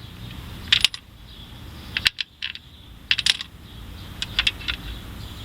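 Small metal bolts clinking and tapping as they are dropped into and seated in the bolt holes of the intake plenum: a series of sharp, light metallic clicks in small clusters.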